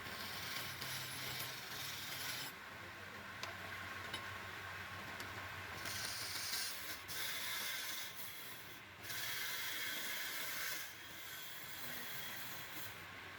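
A tool working wood on a woodturning lathe: a hissing scrape that comes in spells, with a few short breaks.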